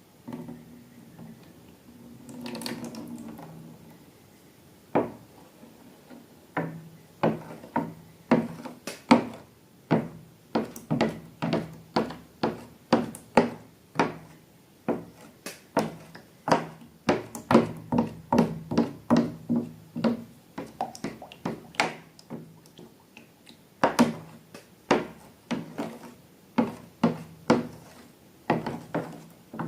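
Irregular series of sharp taps and clicks, about one or two a second, beginning about five seconds in after a brief rustle.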